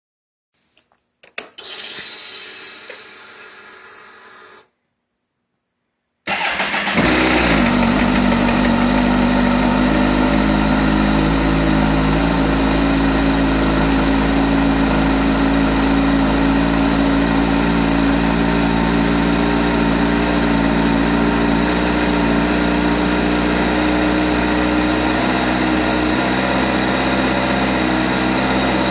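A few clicks and a short fading whir, then about six seconds in the 2008 Kawasaki ZX-14's inline-four engine starts and settles into a steady idle, with the ticking noise that the owner is asking about.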